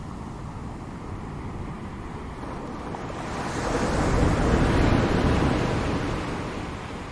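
Ocean surf: a wave swells and breaks in one rushing wash about halfway through, then dies away.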